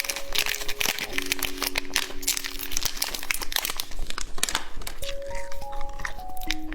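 Plastic candy wrappers crinkling in dense, irregular crackles, over background music of slow, held single notes.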